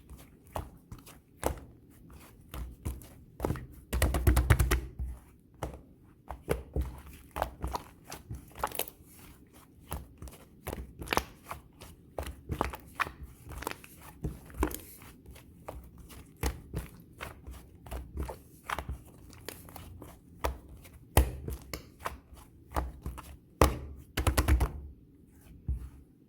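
Light-purple clay slime being pressed and squished by hand, giving irregular crisp clicks and pops, with denser crackling bursts about four seconds in and near the end.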